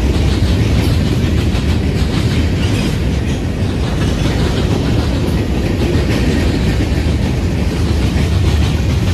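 Freight cars (boxcars and covered hoppers) rolling past on the track: a steady loud rumble with a constant clatter of wheels over the rails.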